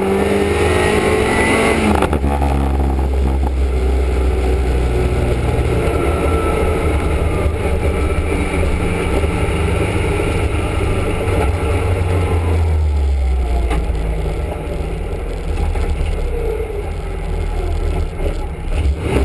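Small race car's engine heard from inside the stripped, roll-caged cabin, revving hard at first with the note dropping sharply about two seconds in. It then runs steadily under load and eases off to a lower, quieter note about two-thirds of the way through as the car slows.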